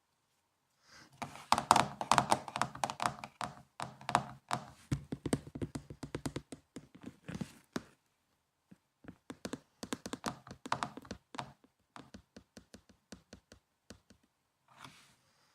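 Typing on a laptop keyboard: a quick run of keystrokes, a pause about eight seconds in, a second burst, then a few slower, separate key taps.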